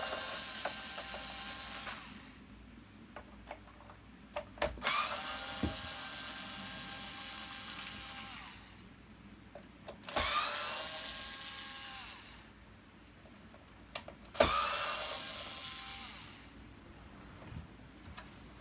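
Cordless electric screwdriver or drill undoing screws in separate runs of a few seconds each. The motor's pitch rises as it spins up and then holds steady until it stops. Short clicks and taps fall between the runs.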